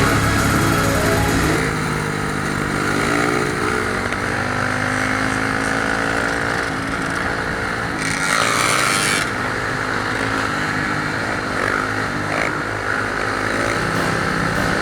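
Dirt bike engines revving, their pitch rising and falling for the first several seconds, then holding a steadier drone, with a brief rushing hiss about eight seconds in.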